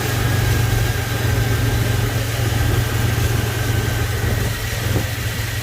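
1999 Jeep Cherokee engine idling steadily with a faint steady high whine, now running after a substitute ignition coil was fitted to cure its crank-but-no-start fault.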